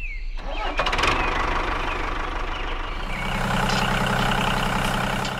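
Tractor engine starting with a clatter, then settling into a steady idle about three seconds in.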